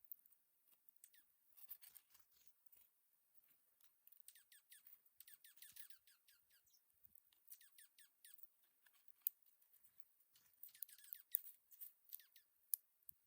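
Dark-eyed juncos feeding at a seed feeder: faint, quick ticks and clicks that come in clusters of rapid strokes, with a few sharper clicks near the end.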